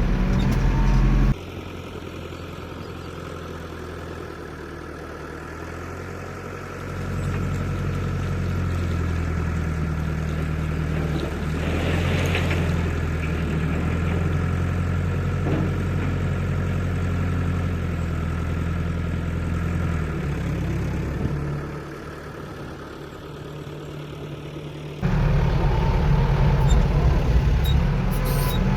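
Diesel engine of heavy machinery running under changing load. It grows louder about seven seconds in and drops back about twenty-one seconds in, and the sound changes suddenly about a second in and again near twenty-five seconds.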